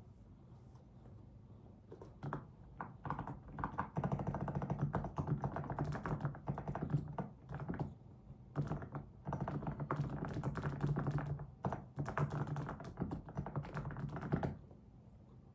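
Typing on a computer keyboard: fast runs of key clicks with a few short pauses, starting about two seconds in and stopping about a second before the end.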